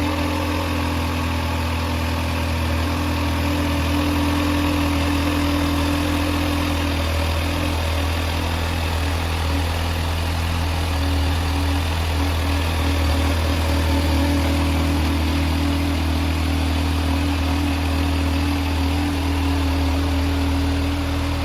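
Kawasaki Z H2 SE's supercharged inline-four engine idling steadily, without revving.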